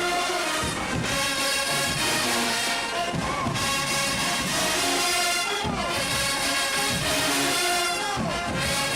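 Marching band brass section playing a tune in full, trumpets and trombones carrying sustained chords over drum beats.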